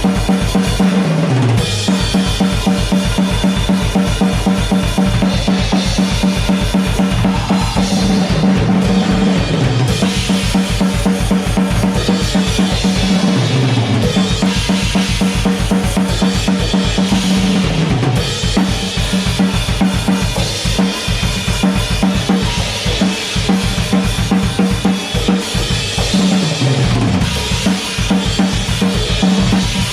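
Drum kit played fast and hard: a rapid, unbroken run of double bass drum strokes under snare and cymbals. Every few seconds, and several times in all, a tom fill runs down from the high toms to the floor tom.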